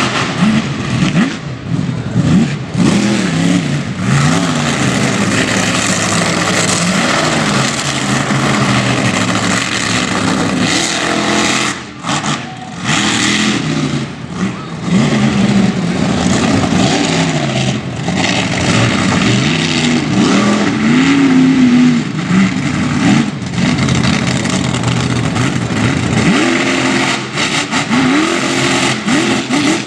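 Monster truck engine revving hard, its pitch rising and falling over and over, with brief dips in level about twelve and fourteen seconds in.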